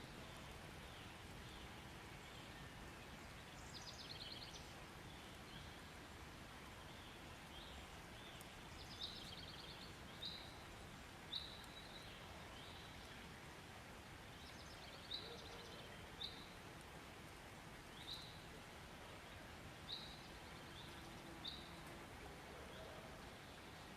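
Faint soundscape recording of birds: short chirps every second or two and a few quick trills, over a steady hiss.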